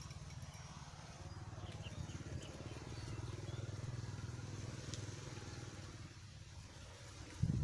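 A small engine running, its low, fast-pulsing rumble swelling and then fading as it passes. A short thump near the end.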